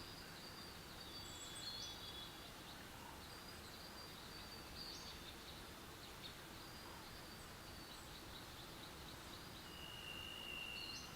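Faint, high-pitched bird chirps and short trills over a steady background hiss, with one longer level whistle about ten seconds in.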